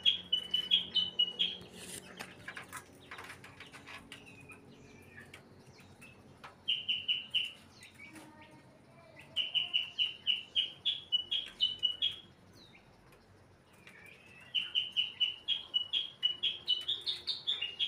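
White-rumped shama (murai batu) calling in four bursts of quick, repeated bright notes, about four or five a second, with pauses between them and some faint fluttering early on. This is the calling that the title presents as the sign of a bird in breeding condition (birahi).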